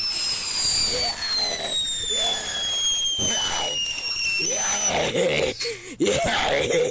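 Piccolo Pete whistling firework going off: a loud, piercing whistle that starts abruptly and falls steadily in pitch for about four and a half seconds, then cuts out into hissing and sputtering crackles.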